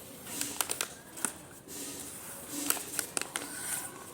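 Scattered crinkles and clicks from aluminium foil and adhesive tape being handled.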